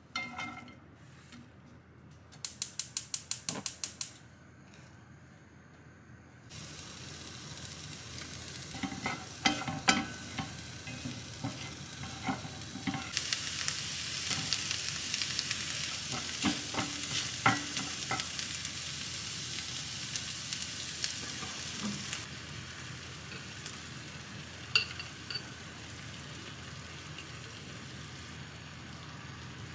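Diced onions frying in an oiled wok-style pan on a gas burner: a steady sizzle with the scrape and knock of stirring, loudest in the middle. Before the sizzle starts, a rapid run of about a dozen clicks.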